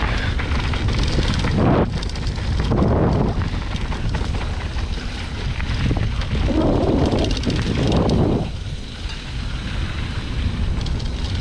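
Wind buffeting the microphone while a mountain bike rattles down a dirt trail, the noise swelling in gusts several times.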